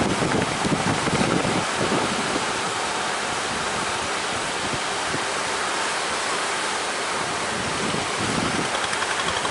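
Strong wind buffeting the microphone over a steady rush of sea and surf.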